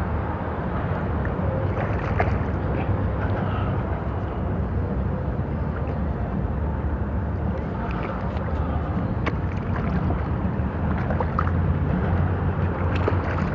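Steady rushing noise of wind and water around a kayak, with a few faint clicks and knocks.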